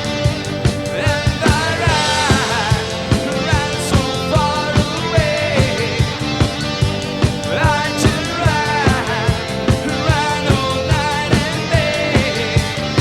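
Rock band music with a steady drum beat and guitar, and gliding pitched lines over the top.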